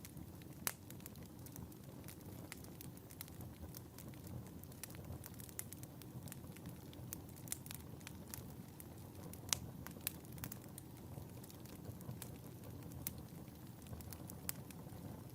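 Wood fire burning in a fireplace: a soft steady rumble of flames with frequent sharp crackles and pops at irregular moments, a few louder pops about a second in and near ten seconds.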